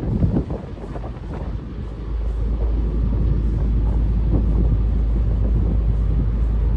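Wind buffeting the microphone aboard a moving river cruise boat: a steady deep rumble that grows louder about two seconds in.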